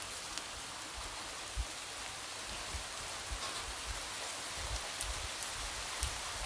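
Light rain falling steadily as an even hiss, with scattered single drops tapping against a window.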